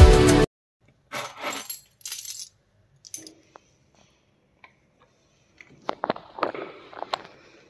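Background music cuts off about half a second in, then scattered handling sounds: a few rustles and isolated clicks, with a quick run of light metallic clicks and clinks near the end.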